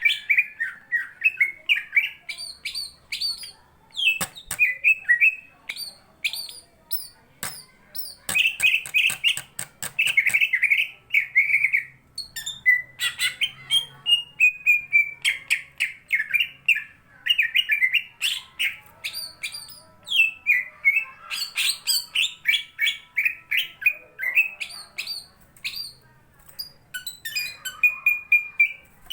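Cucak ijo (green leafbird) singing vigorously in fast, almost unbroken runs of chirps and twittering phrases, the excited full-voiced 'gacor' song of a bird in fighting form. Sharp clicks are mixed in during the first third.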